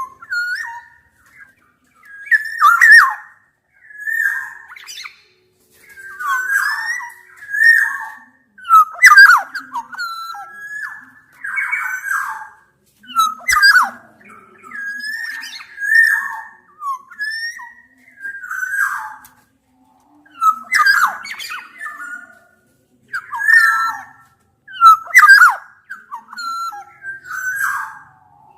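Black-naped orioles (kepodang) calling: short phrases of whistled notes mixed with harsh, scratchy squawks, repeated every second or two with a few brief pauses.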